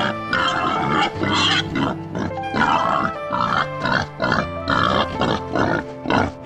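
Wild boar grunting in a series of short, rough grunts, about two a second, over background music.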